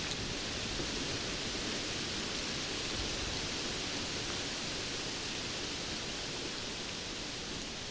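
Steady rainfall: an even hiss of rain without thunder or distinct drops.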